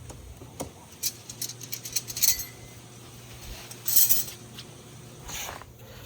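Small metal items clinking and rattling as they are handled, with a brief metallic ring about two seconds in and a louder rattle near the middle.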